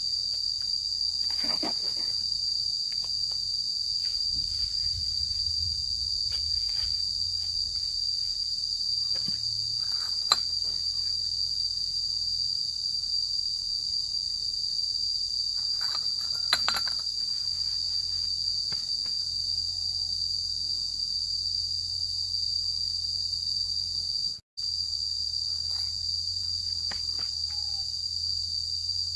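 Steady, high-pitched insect chorus, with a few scattered knocks and taps.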